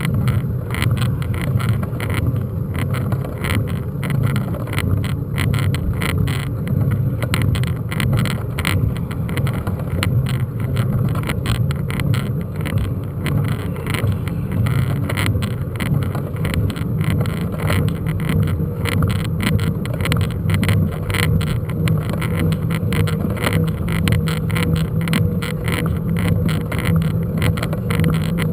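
Mountain bike ridden over a rough unpaved track, heard from a camera mounted on the bike: a steady low rumble with dense, continuous rattling clicks.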